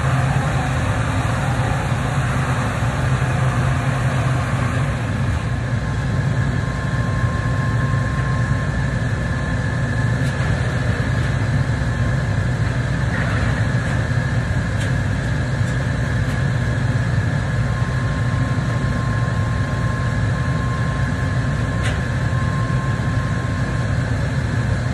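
A machine running steadily: a constant low hum with a faint high whine coming in partway through.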